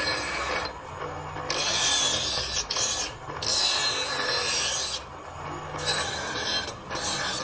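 Rough abrasive scraping of steel on the cleaver's blade, in repeated strokes of about a second each with short breaks between them: the blade being worked down and finished.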